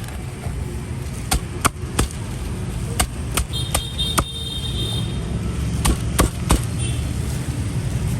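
A cleaver chopping on a board: about ten sharp, irregular chops over a few seconds, over a steady low rumble of traffic.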